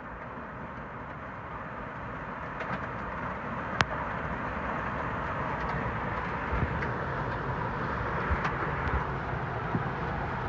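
Steady rushing road noise of a moving car heard from inside, slowly growing louder, with one sharp click about four seconds in.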